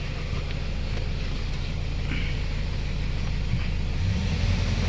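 Hyundai Starex common-rail diesel engine running, picking up speed near the end. Its complaint is a very loud fuel knock when revved, which the mechanic traces to faulty injectors, number 4 showing the most back-leak.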